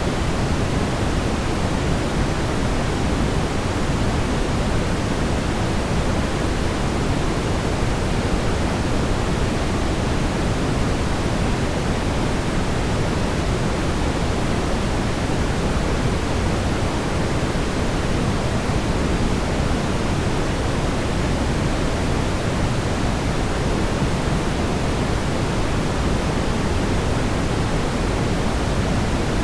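Steady, unbroken brown noise: an even hiss heaviest in the low end, rolling off toward the highs.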